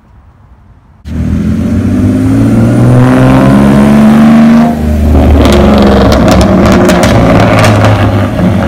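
Straight-piped BMW E46 engine, open from the headers, accelerating hard and very loud. It cuts in suddenly about a second in. The note climbs, drops at a gear change about halfway through, then climbs again with a run of sharp pops from the exhaust.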